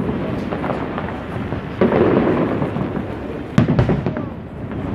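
Aerial fireworks display going off: several booming bursts, the loudest about three and a half seconds in, over a continuous rumble of further shells.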